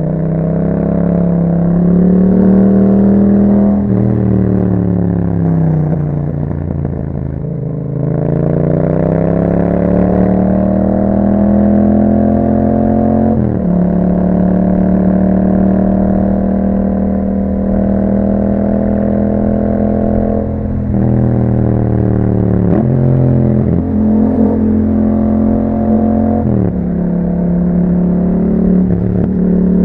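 2021 Yamaha MT-07's parallel-twin engine through an Akrapovic exhaust under way, its note falling off as the bike slows and then climbing again as it accelerates. The pitch drops sharply several times in the second half with gear changes.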